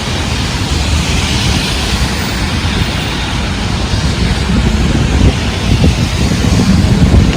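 Heavy rain hissing with strong wind gusts buffeting the microphone in a deep, fluttering rumble that grows stronger from about halfway through.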